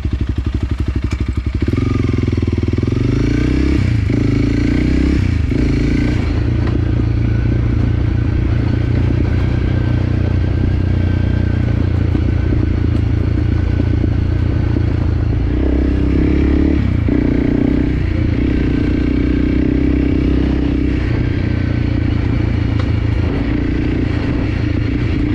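Enduro dirt bike engine pulling away and riding on. It steps up in loudness after a second and a half, with the engine note dipping and changing at gear shifts a few times along the way.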